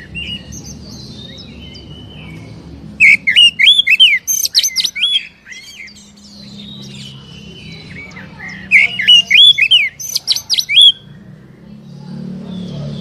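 Oriental magpie-robin (kacer) singing: two loud runs of fast, harsh, sweeping notes, about three seconds in and again about nine seconds in, with softer chirps between, over a low steady hum. This is the excited, full-on song that keepers play to provoke a caged magpie-robin into answering.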